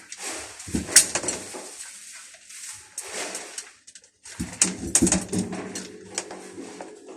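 Hungry stray cats at their food, with irregular clicks and clatter and animal sounds.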